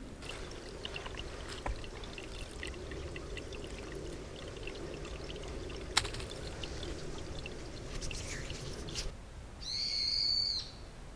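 Liquid being poured steadily for about nine seconds, then stopping. Shortly after, a brief high whistle-like tone lasting about a second.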